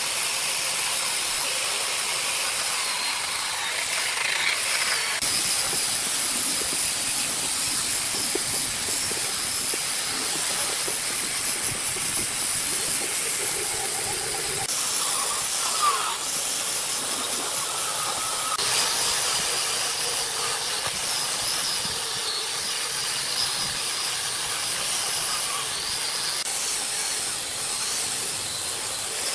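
A steady, high hiss of a pressurised spray jet working on metal. Its tone shifts abruptly a few times.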